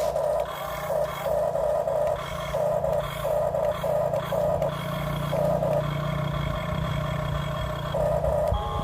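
Small electric motors of a remote-control toy construction vehicle whining in short on-off bursts, over a steady low hum.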